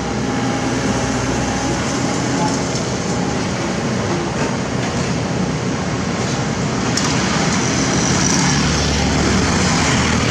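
Heavy construction machinery running steadily: an excavator's diesel engine working, with rumbling and clanking mixed in, growing a little louder about eight seconds in.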